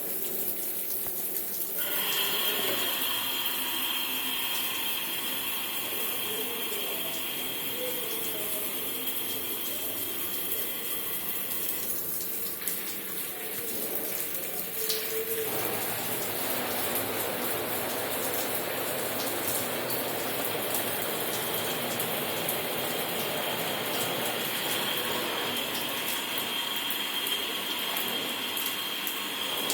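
Water running steadily, as from a tap or pipe, with a steady high whine over it for several seconds near the start and again near the end.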